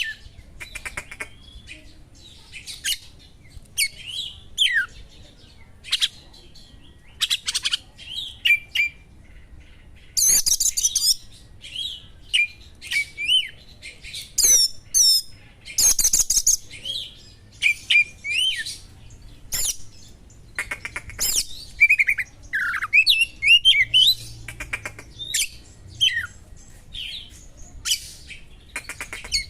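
Oriental magpie-robin singing: a varied run of short loud chirps, whistled notes and quick rising and falling sweeps, with a few fast rattling trills, in the kacer's sharp mimicry of small birds.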